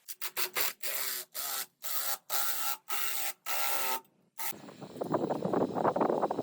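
Mechanical noise in a string of short spells of about half a second each, every one cut off abruptly. About four seconds in it gives way to a rougher, denser machine noise that grows louder.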